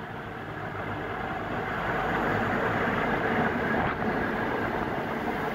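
InterCity 125 High Speed Train passing through the station at speed, a steady rushing rumble that grows louder over the first three or four seconds as the power car and coaches go by, then eases a little.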